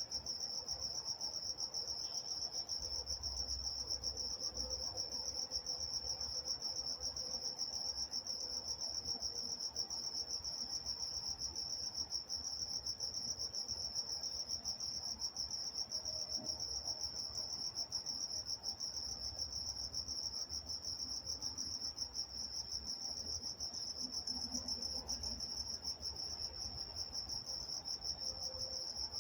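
Night-time chorus of crickets: a steady, high-pitched, rapidly pulsing chirping that goes on without a break.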